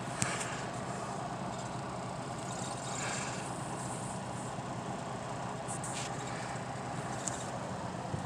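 Semi truck's diesel engine idling steadily. A sharp click comes just after the start, and a few faint ticks follow later.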